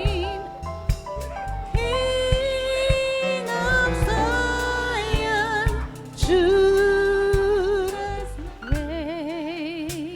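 Gospel music: a singer holds long notes with a wide vibrato over a band with steady bass and sharp drum hits.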